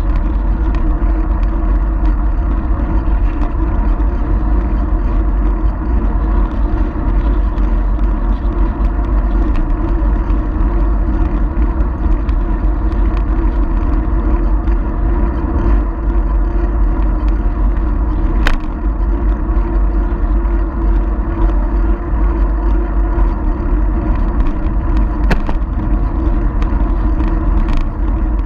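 Steady low rumble of wind buffeting and riding noise picked up by a GoPro Hero 4 Silver on a moving bicycle. A few sharp clicks come through, one about two-thirds of the way in and two near the end.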